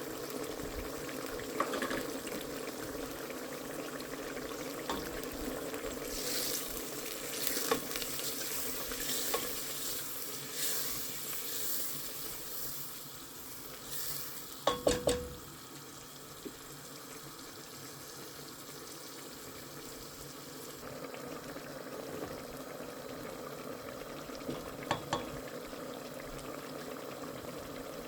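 Food sizzling in a pot on the stove as it is stirred, with a quick run of sharp clinks of a utensil on the pot about halfway through and a couple more near the end.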